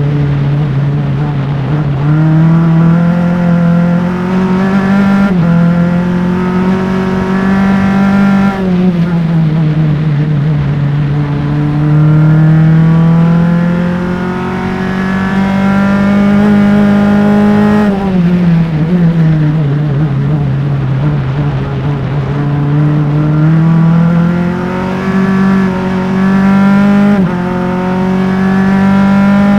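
Onboard engine of a Formula Enterprise single-seater race car at full throttle, its pitch climbing through quick upshifts. Twice the pitch drops away steeply as the car brakes and downshifts for a corner, then climbs through the gears again.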